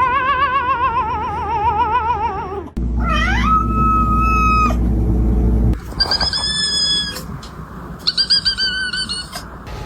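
Cats yowling in a run of long, drawn-out calls that waver up and down in pitch, one after another with short breaks; the last calls are higher.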